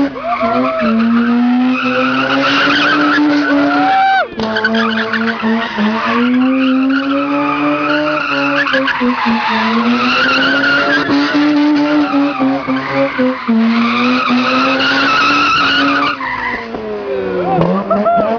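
Mazda RX-8's two-rotor Renesis rotary engine held at high revs while the tyres squeal in a slide, as in donuts or drifting. The revs dip and climb back several times, with a sharp drop about four seconds in.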